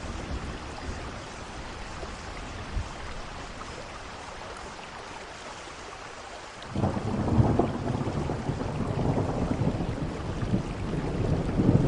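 Steady rain, then about two-thirds of the way through a roll of thunder breaks in suddenly and keeps rumbling low and loud over the rain.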